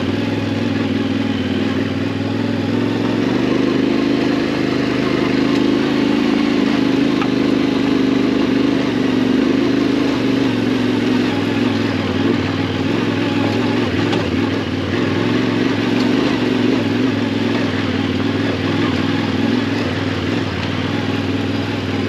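Yamaha Ténéré 700's parallel-twin engine running at a fairly steady speed while riding, with a constant rush of noise behind the engine note.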